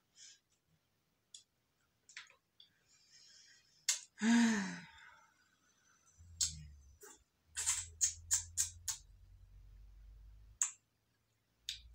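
Close-miked eating sounds: wet mouth clicks and lip smacks of chewing, scattered throughout and bunched in the second half over a low rumble. About four seconds in there is one short vocal sigh falling in pitch, the loudest sound.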